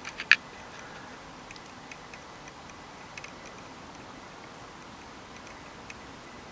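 A few sharp clicks right at the start, then faint, irregularly spaced ticks over a steady hiss.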